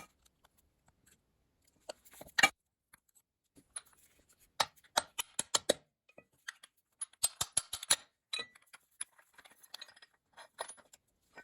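Small metal engine parts clinking and tapping against each other as they are handled: one sharp clack about two seconds in, then runs of quick clinks between about four and eight seconds, and a few lighter taps after.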